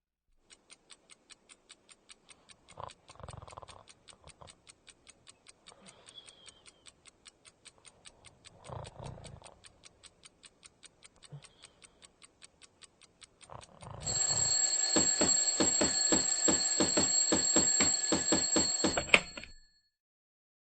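A clock ticking steadily at about five ticks a second, then, about fourteen seconds in, an alarm clock bell ringing loudly for some five seconds before it cuts off sharply.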